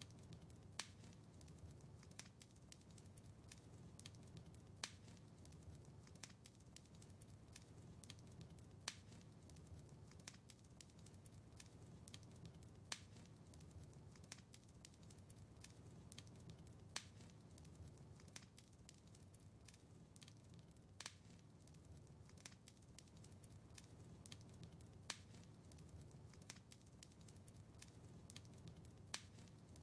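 Wood fire crackling in a fireplace, faint: a low steady rumble of the flames under many small sharp pops, with a louder pop about every four seconds.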